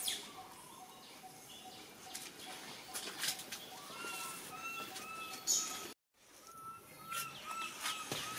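Birds calling in the trees: a steady run of short low notes about three a second, joined from about four seconds in by short higher whistled notes repeating about twice a second, over faint rustling. The sound cuts out completely for a moment just after six seconds.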